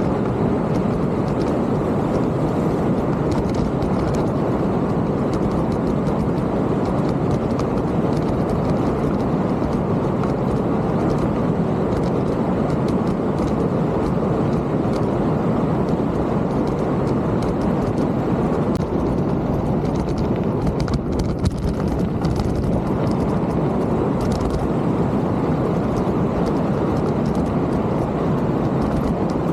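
Steady rushing noise of a mountain bike ride: wind on the bike-mounted camera's microphone and tyres rolling over the trail, with faint small clicks and rattles throughout.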